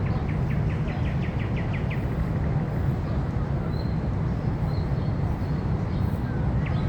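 Steady low outdoor rumble with a small bird singing a quick trill of about ten short, high notes in the first two seconds, and starting again near the end.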